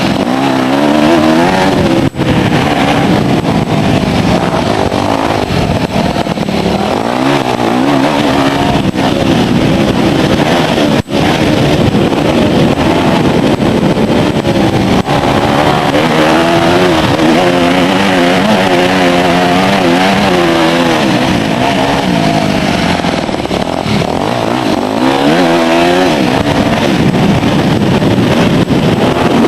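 Four-stroke single-cylinder motocross bike engine, a 2006 Yamaha YZ250F, racing with its pitch rising and falling again and again as the throttle opens and closes. The exhaust cam is set one tooth off, which the owner says made it run worse than normal.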